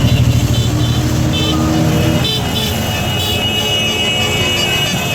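Motorcycle engine running close by, dropping away about two seconds in, amid steady engine and crowd noise.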